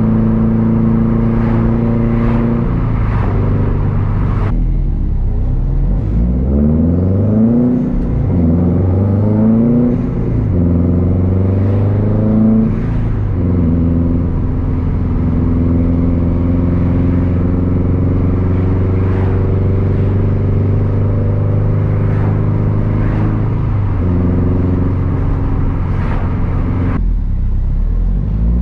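2013 Subaru WRX STI's turbocharged flat-four running loud through a Tomei Expreme Ti unequal-length exhaust under way. Engine pitch rises and falls several times in the middle as it is driven through the revs, then holds a long steady drone, easing off briefly near the end.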